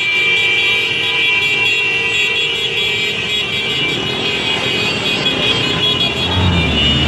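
A motorcycle engine running steadily amid road noise, with a deeper low rumble swelling about six seconds in.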